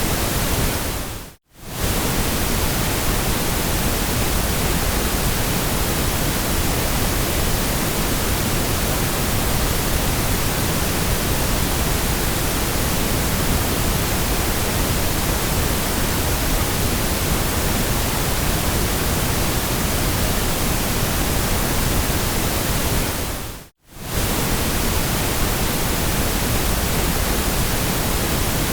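Steady generated white noise, an even hiss across the whole range from low to high. It briefly fades to silence and back about a second and a half in, and again some twenty-two seconds later.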